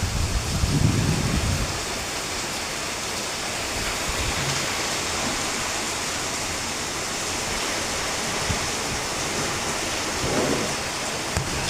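Typhoon wind gusts and heavy rain: a steady rushing noise, with gusts buffeting the microphone in low rumbles about a second in and again near the end.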